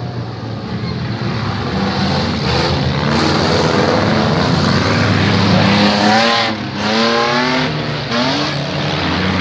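Several demolition derby car engines running and revving at once. Loudness builds over the first few seconds, and about two-thirds of the way in the pitch of one engine rises and falls repeatedly as a car passes close.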